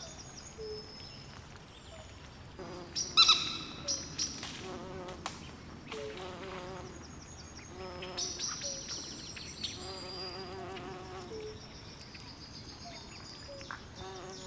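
Swamp nature ambience: many short, high bird chirps and calls and wavering insect trills over a faint steady background hiss. A louder single call stands out about three seconds in.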